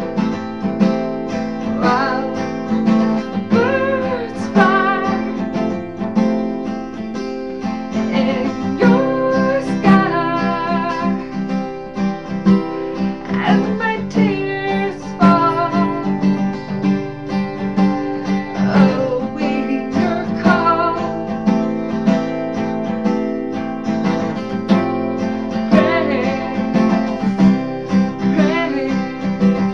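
Acoustic guitar strummed steadily, with a woman singing over it in phrases.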